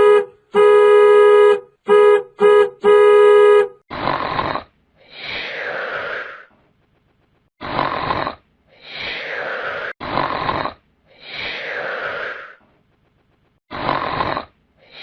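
A buzzy horn-like electronic tone in four short blasts. Then a snoring sound effect, repeated four times about every three seconds, each snore a short harsh intake followed by a longer breath that falls in pitch.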